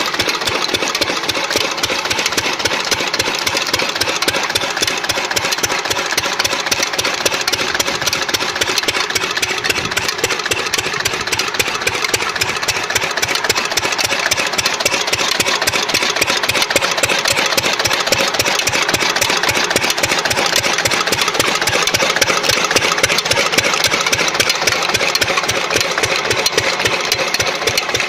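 Old Lister-type stationary diesel engine running steadily, with an even, rapid beat of firing strokes.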